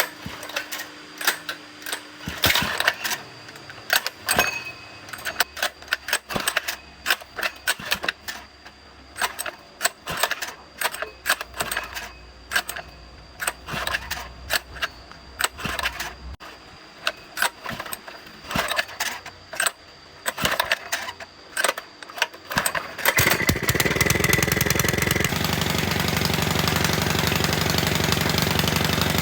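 A run of irregular clicks and knocks, then near the end the small gasoline engine of a water pump starts and keeps running steadily, its sound shifting a couple of seconds after it catches: the pump running after its dirty carburetor was cleaned.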